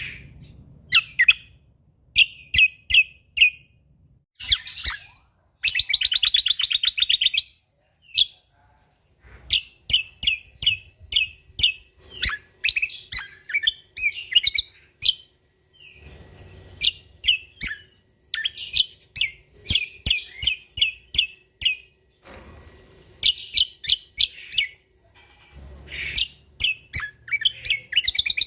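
Cucak kombo (kecial kombok) songbird singing energetically in repeated runs of sharp, rapid chirps with short pauses between them. About six seconds in it gives a dense buzzing trill.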